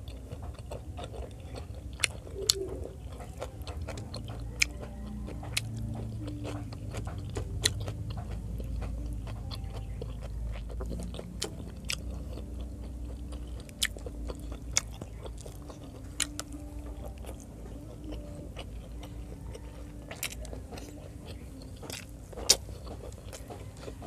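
Close-miked chewing of fried pork adobo and rice eaten by hand, with scattered sharp, wet mouth clicks and smacks.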